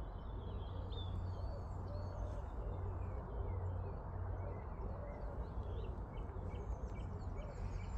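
Birds chirping in short scattered calls, with a few low cooing calls, over a steady low rumble of outdoor background noise.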